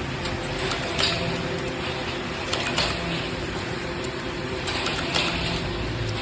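A motor or machine running steadily, with scattered light clicks and knocks.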